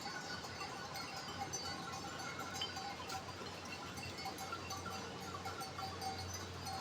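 Bells on a grazing flock of sheep tinkling, many small overlapping ringing notes.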